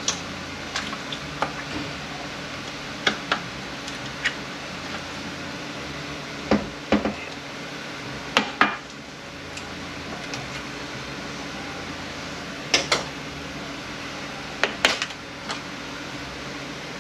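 Hand tools and metal parts clinking and knocking against a transmission case during disassembly, a few sharp knocks, mostly in close pairs, spaced a few seconds apart. A steady hum runs underneath.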